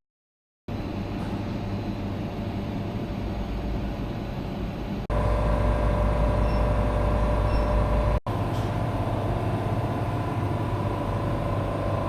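Steady machine hum with a low drone and a few steady tones, broken by two abrupt cuts; the middle section is louder.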